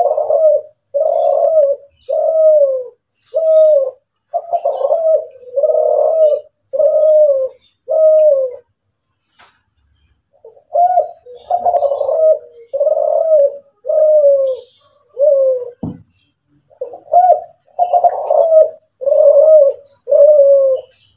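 Spotted dove of the Kelantan strain cooing over and over, about one coo a second, with a pause of about two seconds near the middle. There is a single thump about three-quarters of the way through, and faint high chirps from other small birds throughout.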